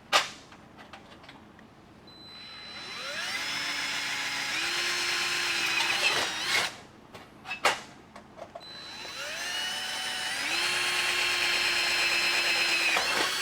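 Electric hand drill run twice, enlarging two small pre-drilled holes so the latch screws will fit; each time it spins up in pitch, then holds a steady whine. A few short knocks come between the two runs.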